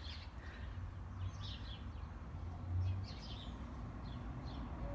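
Small garden birds chirping and twittering in short scattered calls, over a steady low rumble.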